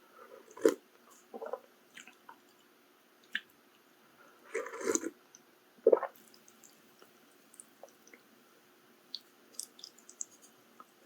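Close-miked wet, squishy eating sounds of maratang: chewing and food handled in short scattered bursts, with the sharpest ones about a second in and about six seconds in, and small clicks near the end.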